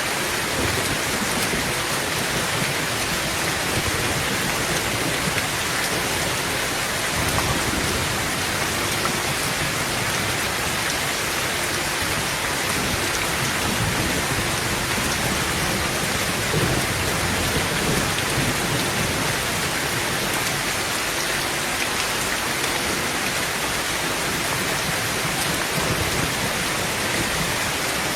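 Heavy rain drumming steadily on a tin roof, with low rolls of thunder rumbling beneath it at times.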